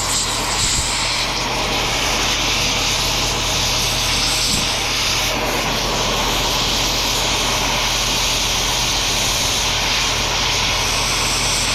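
Cutting torch flame hissing steadily while it melts cables off a chunk of aluminium scrap, over a low steady hum.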